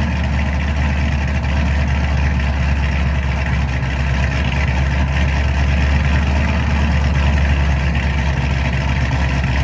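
Hennessey-tuned C7 Corvette ZR1's supercharged 6.2-litre LT5 V8 idling steadily after a cold start, a low, even exhaust note.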